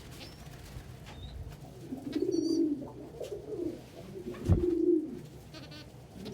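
Domestic pigeons cooing close by in several low, rolling phrases, with a few faint high squeaks. A sharp thump about two-thirds of the way through.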